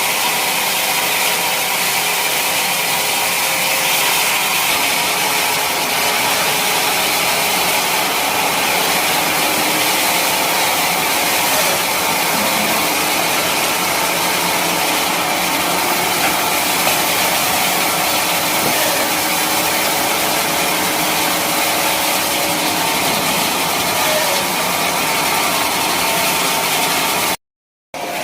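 Sawmill machinery running steadily with an even mechanical noise, typical of a log being sawn into teak lumber. The sound cuts out completely for about half a second near the end.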